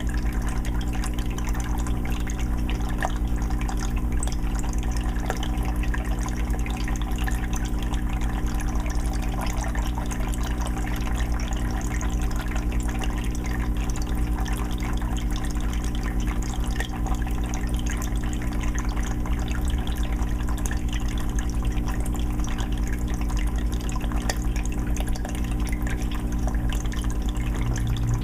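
Aquarium filter running in a 20-gallon fish tank: water continuously trickling and bubbling, with fine dripping splashes over a steady low hum.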